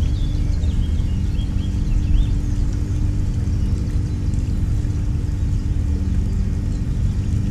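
Steady low rumble with a droning hum that shifts down in pitch near the end. A few short chirps from small birds come in the first two seconds.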